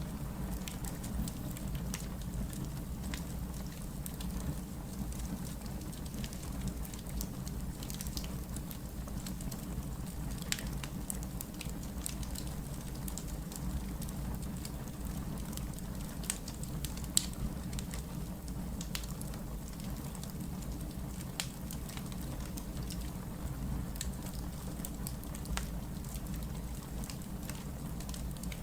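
Wood fire burning, a steady low rumble with scattered sharp crackles and pops, one louder pop about two-thirds of the way in.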